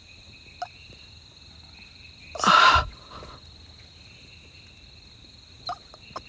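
A person's short, sharp breath about two and a half seconds in, over a faint, steady high-pitched chirring of night insects, with a few faint clicks.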